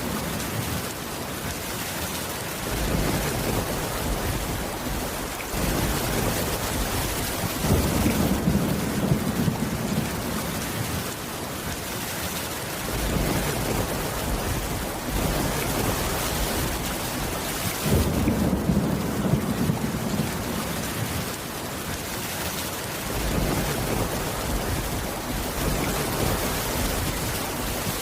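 Steady heavy rain, with low thunder rumbles swelling and fading about every ten seconds.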